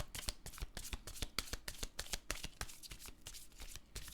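A deck of tarot cards being shuffled by hand: a quick, irregular run of card clicks and flutters.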